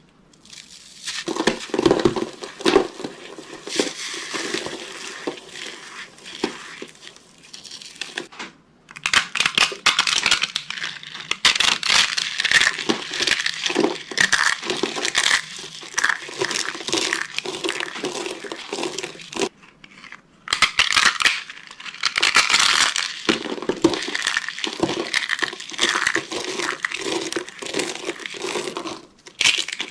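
Dry soap being crushed and crumbled, a dense, crunchy crackling full of small sharp snaps. It comes in three long runs, with short pauses about 8 and 20 seconds in.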